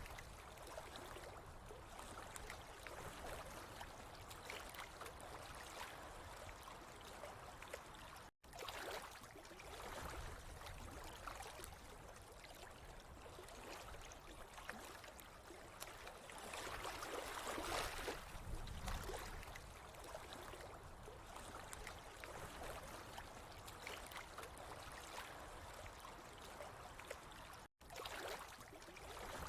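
Water trickling and gurgling steadily, swelling and easing now and then, with two brief drops to silence.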